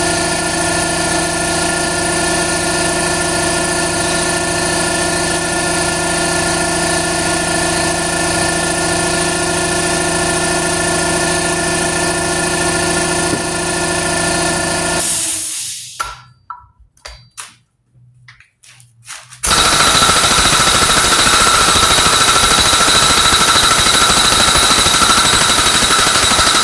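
Impact gun hammering continuously on a nut of a Mack power divider for about fifteen seconds, stopping for a few seconds, then hammering again louder and harsher with a higher ring to the end, tightening the nut to torque.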